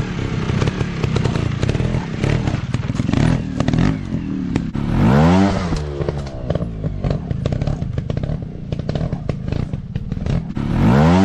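Dirt bike engines running, revved up and back down twice, about five seconds in and again near the end, with crackling clicks throughout.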